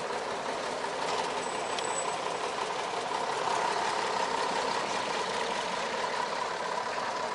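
Steady motor-vehicle noise, engine and road sound with a continuous hum.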